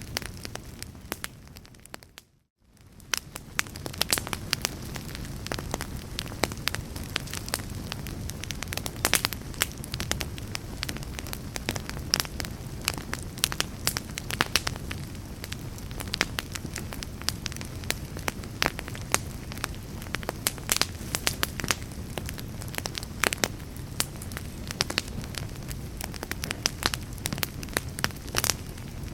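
Wood fire in a fireplace crackling: frequent sharp pops and snaps over a steady low rumble of flames. The sound fades away briefly about two seconds in, then comes back.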